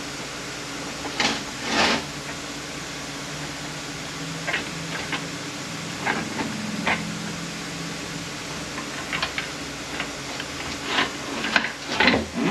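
Scattered clicks, clinks and short scrapes of metal automatic-transmission parts being handled and pulled apart during disassembly, with a denser run of clinks near the end, over a steady low hum.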